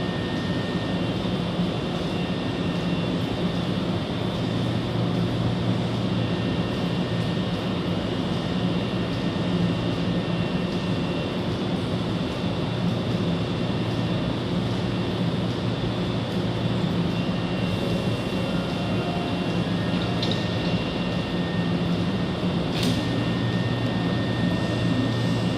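Hankyu 5100-series electric train standing at the platform, its on-board equipment giving a steady hum with a faint high whine. A single sharp click about 23 seconds in.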